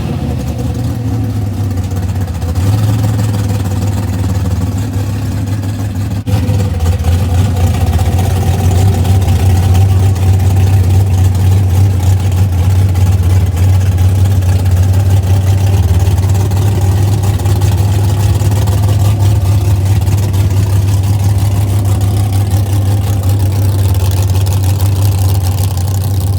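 A vehicle engine running steadily with a deep, constant rumble that gets louder after a click about six seconds in.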